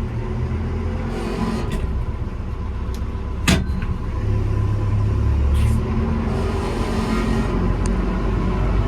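Telehandler's diesel engine running as the machine drives along in four-wheel steer, heard from the operator's seat: a steady rumble with rattling, growing a little louder partway through. One sharp clank about three and a half seconds in.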